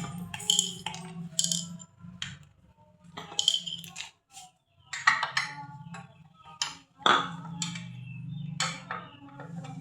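Metal tools and scroll-saw parts clinking and knocking as they are handled during disassembly, in irregular short strikes with a brief ring. A low steady hum lies beneath and drops out briefly near the middle.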